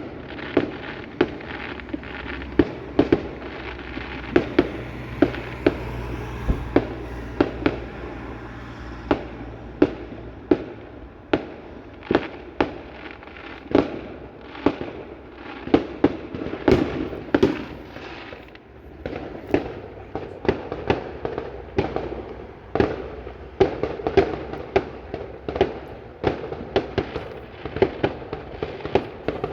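Fireworks exploding one after another: sharp bangs about one or two a second over a continuous rumble and crackle of overlapping bursts.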